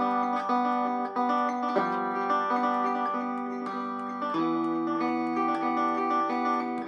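A circa 1936–37 electric Vega banjo finger-picked with finger picks: a steady stream of plucked notes in a regular rolling pattern.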